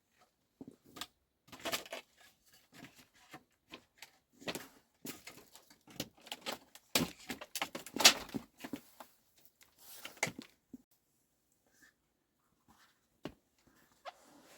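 Irregular knocks, clatters and scrapes of objects being handled, loudest about seven to eight seconds in, then only a few scattered knocks after about eleven seconds.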